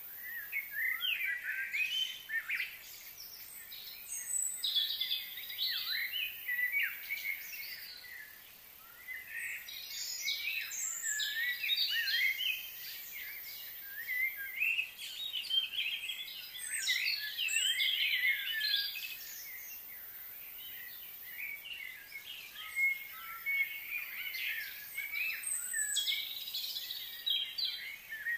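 Small birds chirping and singing in overlapping bouts of quick rising and falling notes, with short lulls between bouts.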